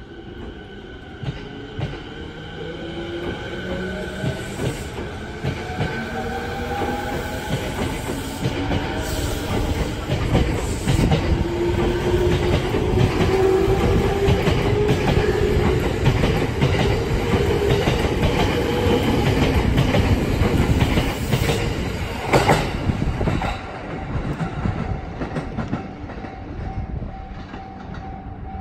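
Tokyo Waterfront Area Rapid Transit 70-000 series electric train pulling away, its traction motor whine climbing steadily in pitch in several tones as it gathers speed, with wheels clattering over the rail joints. The sound dies away near the end as the last cars leave.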